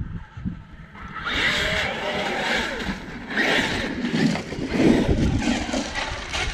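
Brushless electric RC monster truck driving on wet sand, its motor whine rising and falling in several bursts of throttle from about a second in. Wind rumbles on the microphone throughout.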